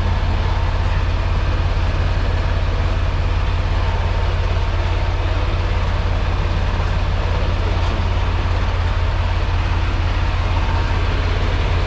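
Semi-truck diesel engine running steadily, a deep even hum with a fast regular pulse and no change.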